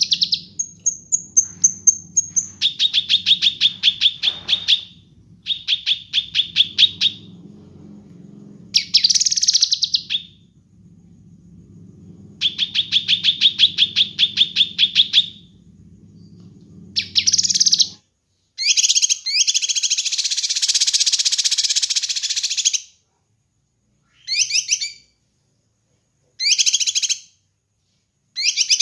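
Kinoi songbird singing. It gives bursts of rapid repeated notes, about seven a second, each burst lasting a couple of seconds, with a brief high whistle near the start. Past the middle the song turns to denser, harsher bursts separated by short gaps.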